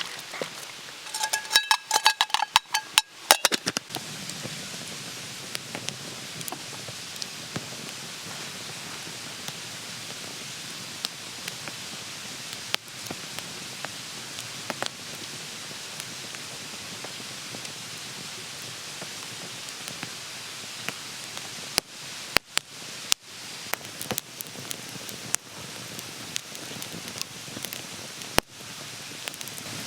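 Food sizzling in a hot pan: a steady frying hiss scattered with sharp crackles and pops. About a second in there is a short run of ringing metal clinks, and another cluster of loud pops comes near the end.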